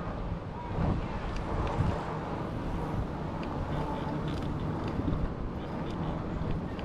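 Wind buffeting a chest-mounted action-camera microphone during an e-bike ride, a steady low rumble with a few faint clicks.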